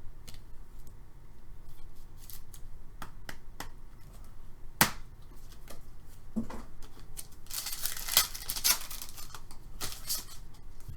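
Trading-card packs and cards being handled: scattered sharp clicks and taps, with a stretch of crinkly rustling, like a foil wrapper being torn and handled, around eight seconds in.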